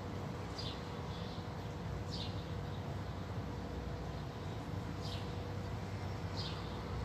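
A small bird giving about five short, high chirps, each falling in pitch, spaced a second or more apart, over a steady low hum.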